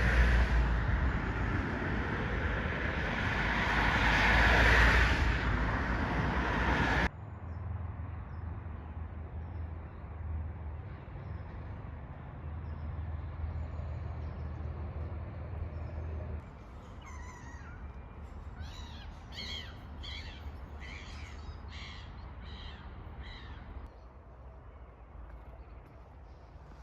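Loud road traffic noise swells to a peak and then cuts off abruptly. Quieter traffic hum follows, and over it a bird gives a rapid run of about ten short, harsh calls in a few seconds, crow-like caws.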